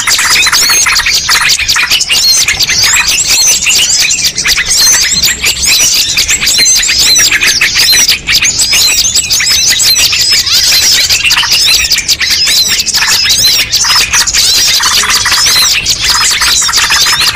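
Bird-lure recording of many small birds calling at once: a dense, unbroken chatter of quick high-pitched chirps and twitters, used to draw wild birds in.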